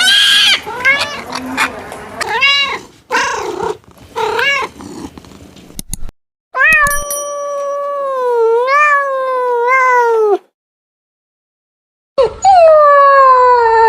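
Cat meowing: a run of short, arching meows, then one long, wavering, drawn-out yowl of about four seconds. After a brief silence, another long drawn-out call starts near the end.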